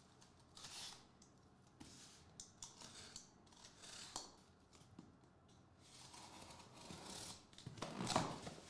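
Plastic wrap being cut and torn off a sealed box of trading cards: a series of short cuts and rips, loudest near the end.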